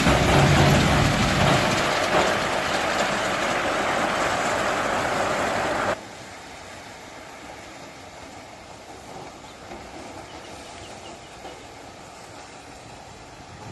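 Tractor-driven corn harvester running, a loud steady mechanical clatter. About six seconds in the sound drops suddenly to a much quieter steady rumble.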